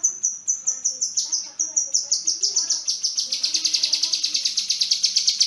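Kinoi songbird singing: high, sharp repeated notes about four a second that speed up about halfway through into a fast, rapid trill.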